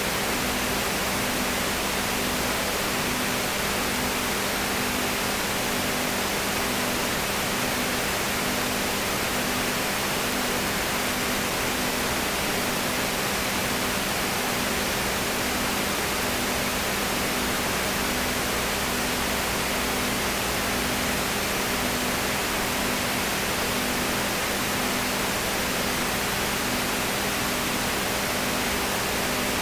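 Steady loud hiss with a low electrical hum underneath; one hum tone pulses about once a second.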